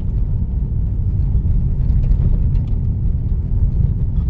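Steady low road and tyre rumble heard inside a car's cabin while driving on a dirt road, with a few faint ticks over it.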